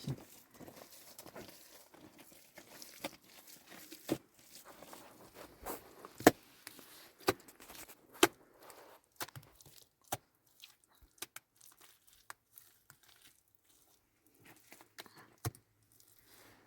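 Scattered crinkling and rustling with sharp clicks and knocks, as of things being handled and set down.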